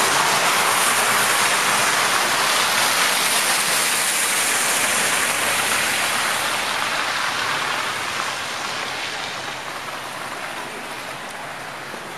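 Steady rushing hiss of a snowstorm outdoors, with no distinct events, slowly fading over the second half.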